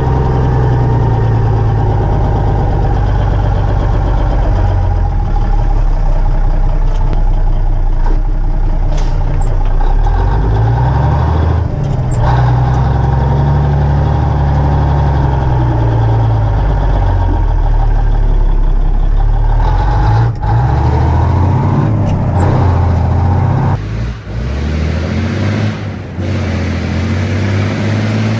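Cummins diesel engine of an old dump truck running loudly, its revs rising and falling several times.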